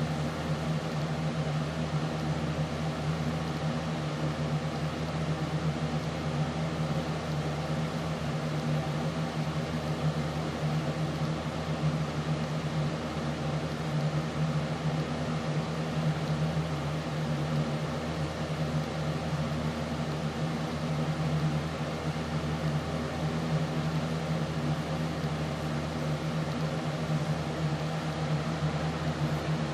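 Steady mechanical hum: one strong low tone with several fainter steady tones above it over an even hiss.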